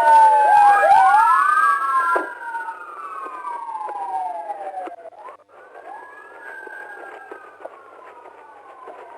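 Several police car sirens wailing over one another, their pitches rising and falling out of step. They are loudest for the first two seconds, then continue more quietly.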